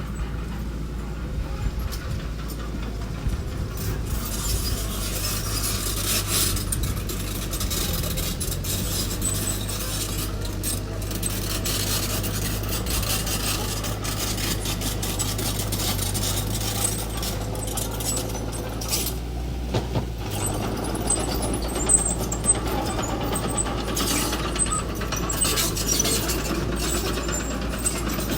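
Engine of small earthmoving machinery running steadily, with clanking and scraping from the machine working. A few sharper clanks come about two-thirds of the way through.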